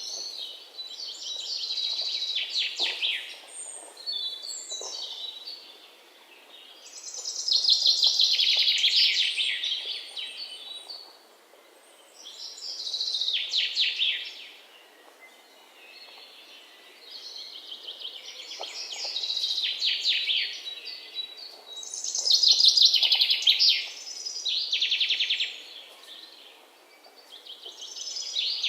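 A songbird singing, repeating a phrase of rapid notes that falls in pitch, about six times with short pauses between.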